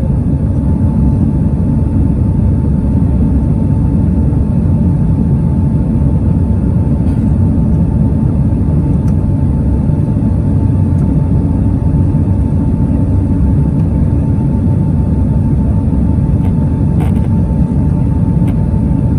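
Boeing 767 cabin noise: a loud, steady rumble of the jet engines and airflow, with a steady high whine running through it.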